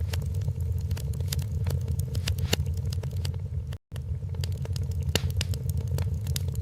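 Wood fire crackling in a fireplace: frequent sharp pops and snaps over a steady low rumble of flame. It cuts out to silence for an instant about four seconds in.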